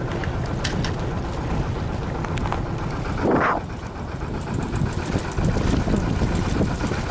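Small sailing yacht's inboard engine running steadily, a low rumble. A brief louder burst of rushing noise comes a little after three seconds in.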